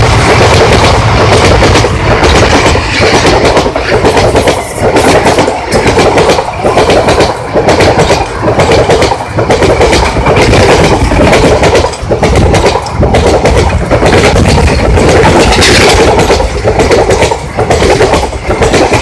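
Indian Railways passenger coaches passing at speed close by, wheels clattering over the rail joints in a quick, uneven clickety-clack over a steady loud rush of noise.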